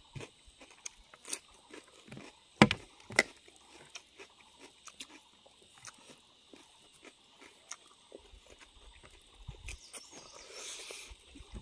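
Close-miked chewing and lip smacking of a man eating rice and pork with his hands, a run of short wet clicks and smacks with two louder ones about two and a half and three seconds in, and a brief breathy rush near the end.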